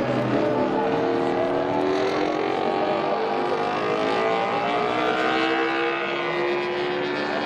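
High-revving racing engine accelerating, its pitch rising slowly and steadily.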